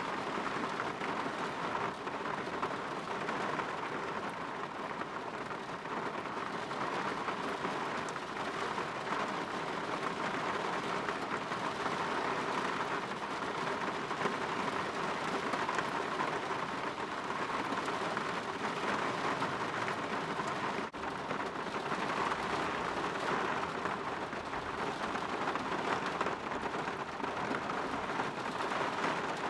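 Steady rain falling on a window, an even hiss that swells and eases a little.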